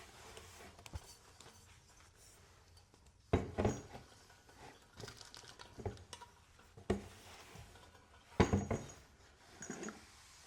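Objects being handled in a small room: a scattering of knocks and clinks, with two louder clatters about three and eight seconds in, some leaving a short high ring.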